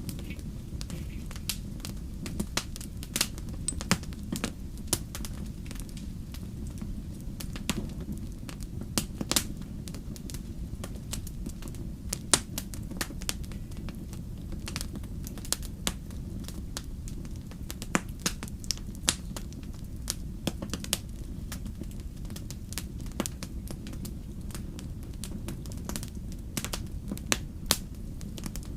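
Wood campfire crackling, with irregular sharp pops and snaps, over a steady low rumble.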